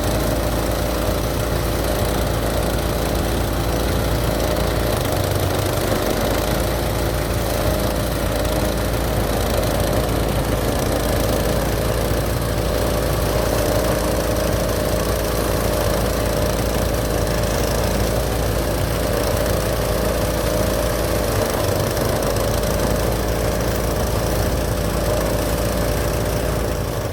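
Small engine of a motorised paddy thresher running steadily under a constant load, with no change in speed.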